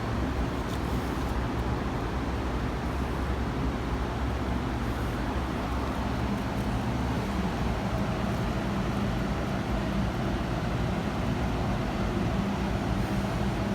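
Steady low rumble with a faint hum and no distinct events, like distant road traffic or a running machine.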